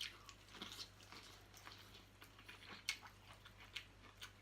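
Faint chewing and mouth sounds, with a few soft scattered clicks.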